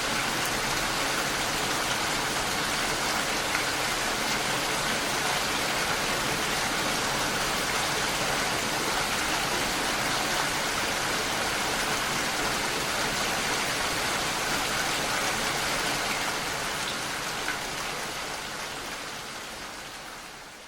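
Steady rain, a dense even hiss of falling drops, fading out over the last few seconds.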